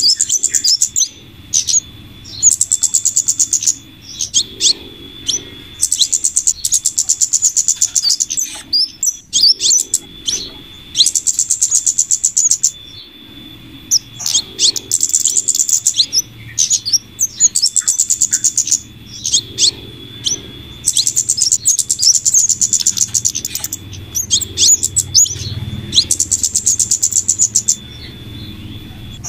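Bird-lure recording of flowerpecker calls mixed with female scarlet minivet calls: rapid, very high trills about a second long repeating every two seconds or so, with sharp high chips in between, over a steady high-pitched tone.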